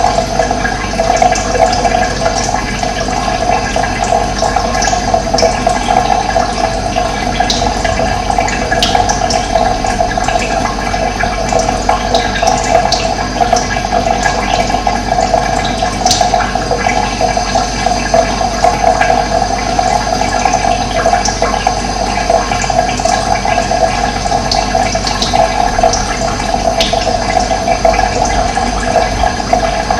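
Running water flowing steadily, a constant rushing sound, with brief high bird chirps now and then.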